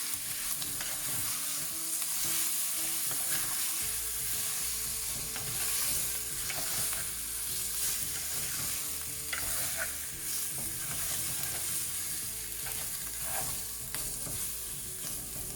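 Marinated chicken pieces sizzling in hot coconut oil with fried onions and spices in a clay pot while being stirred and mixed in, a steady frying hiss.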